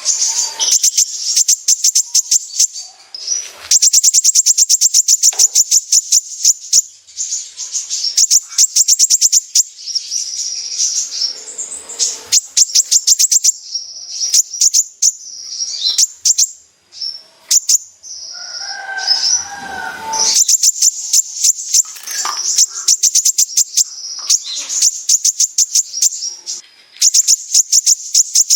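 Kolibri ninja sunbird singing in full 'besetan': bursts of very fast, high, rattling trills of tick-like notes, broken by short pauses. It adds a brief lower warbling phrase about two-thirds of the way in.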